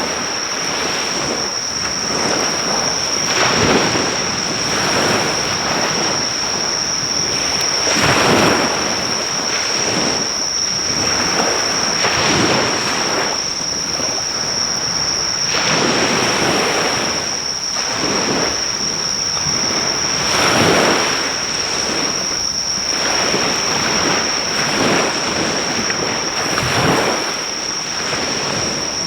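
Ocean waves breaking on a shore, surging every four seconds or so, over a steady high-pitched insect trill that never lets up.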